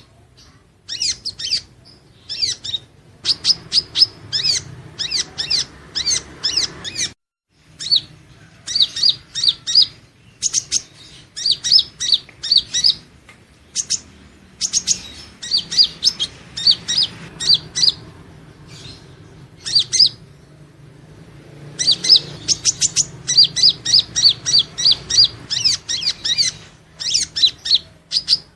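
Purple-throated sunbird (Leptocoma sperata) singing: rapid strings of high, thin chirps in bursts of a few seconds, separated by short pauses.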